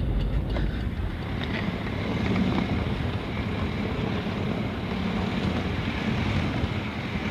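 Inside a moving 2003/2004 Toyota Corolla: steady road and engine noise with a few faint, scattered ticks, the knocking of the loose passenger seat.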